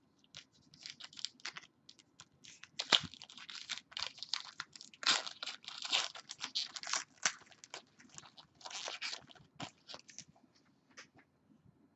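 Trading cards and their packaging being handled at close range: a long run of short, irregular rustles and crinkles.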